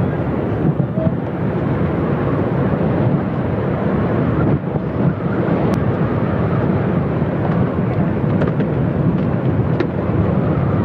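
Steady outdoor noise with a low rumble, even throughout and without distinct events.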